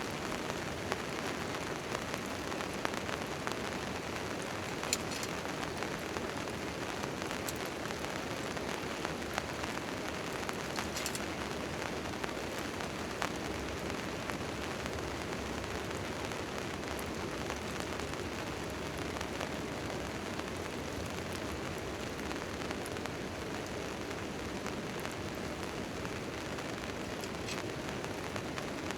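Steady rain falling on a tent tarp, with scattered sharp ticks.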